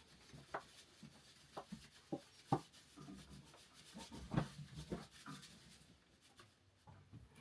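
Irregular soft knocks and rubbing, as of things being handled, with the sharpest knocks about two and a half and four and a half seconds in.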